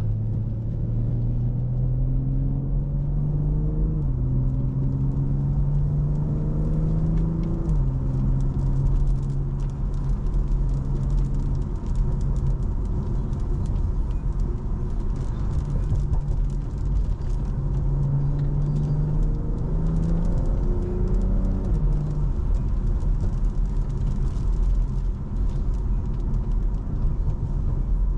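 BMW M340i's turbocharged B58 straight-six, stage 2 tuned, pulling from inside the car: the engine note climbs and drops back with upshifts about four and eight seconds in, holds steady at a cruise, then climbs and shifts again a little past the middle.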